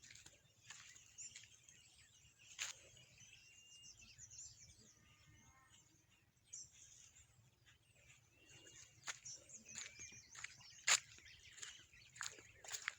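Small birds chirping and calling, with several sharp clicks or snaps scattered among them; the loudest comes about eleven seconds in.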